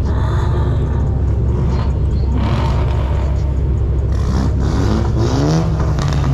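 Car engine running loudly with a deep rumble and being revved, its pitch rising about five seconds in.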